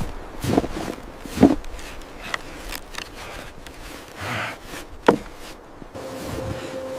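Several irregular knocks and thuds, the loudest about a second and a half in and again about five seconds in, with a held music note coming in near the end.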